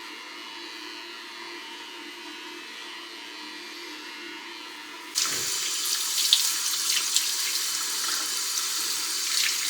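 A faint steady hum, then about five seconds in a kitchen tap is turned on and water runs splashing into the sink.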